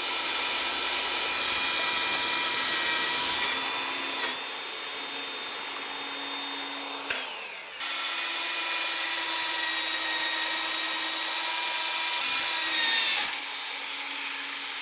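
Electric drill boring holes through two stacked metal plates at once, running at a steady whine. About halfway through, the motor winds down with a falling pitch and starts again a moment later.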